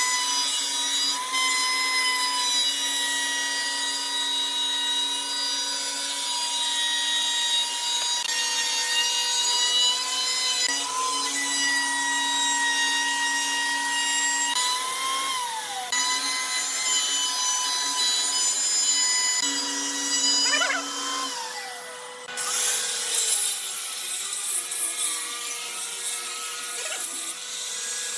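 Electric power tool's motor whining at high speed as it works wood, the pitch sagging and recovering a couple of times as it takes load. In the last few seconds the steady whine gives way to a rougher, noisier scraping on wood.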